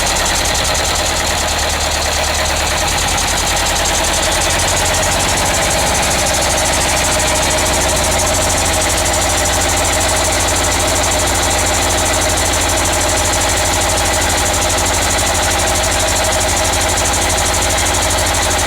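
Sabb 2G 22 hp marine diesel engine running steadily with a rapid, even beat, its note settling about four to five seconds in. The engine is on its first run after standing unused for a long while.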